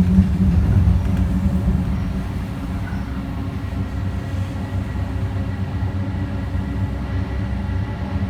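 Alstom Citadis Spirit light-rail train running between stations, heard from inside the car: a steady low rumble of wheels on track with a faint high motor whine. The rumble eases a little over the first two seconds, then holds steady.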